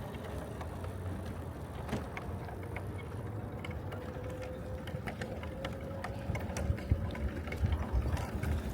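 Riding a bicycle, most likely an electric-assist bike: a steady low rumble of wind and tyres, with a faint steady motor whine that rises a little mid-way, and scattered light clicks.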